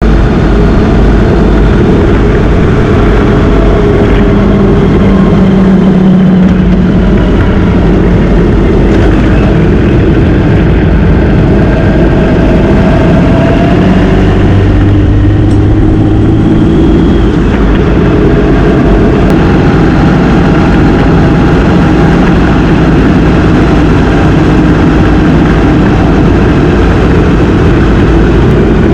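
Motorcycle engine running while riding, its pitch rising and falling with the throttle, over a heavy, steady rumble of wind on the microphone.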